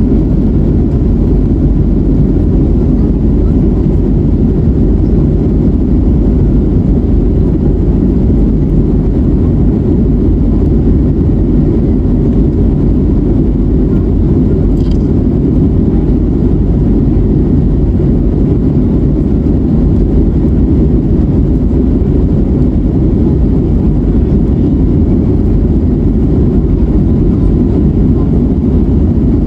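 Steady low rumble of jet engines and airflow heard inside the cabin of an Airbus A321neo with Pratt & Whitney PW1100G geared turbofans, in flight after takeoff.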